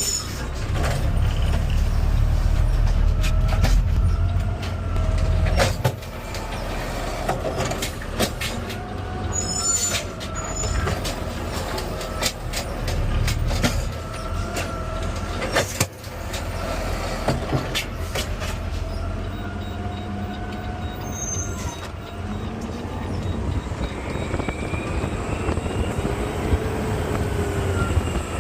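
Garbage truck running, heard from the driver's seat: a steady low engine rumble with whining tones that rise and fall, and scattered clanks and rattles. Near the end the whine rises as the truck pulls away.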